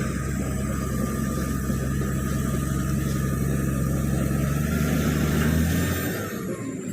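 Komatsu D85PX bulldozer's diesel engine running steadily and loudly, swelling a little before dropping off about six seconds in.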